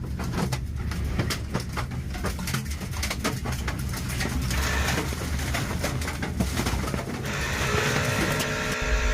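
Violent storm wind passing overhead, with a heavy rumble and many rapid sharp knocks of debris or rattling. From about seven seconds in, a steady sound of several held pitches joins.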